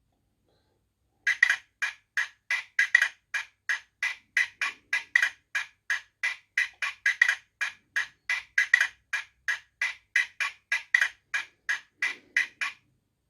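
Hornby TTS sound decoder's Class 37 Spirax valve effect, played through the model locomotive's small speaker: a fast, even series of short hissing spits, about three to four a second. It starts about a second in and cuts off shortly before the end.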